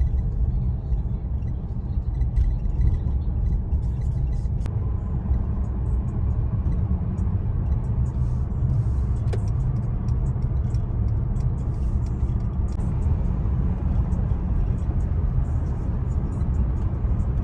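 Steady low rumble of a truck driving, its engine and road noise heard from inside the cab.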